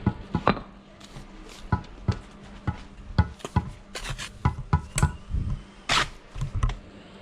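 Bricklaying work: irregular knocks and scrapes of a trowel against concrete blocks and mortar, with a longer scrape about six seconds in. A steady low hum runs underneath.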